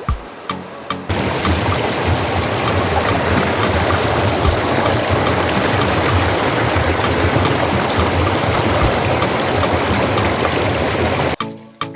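A river running, a loud, steady rush of water that comes in suddenly about a second in and cuts off sharply near the end. A background music beat is heard briefly at the start and again at the very end.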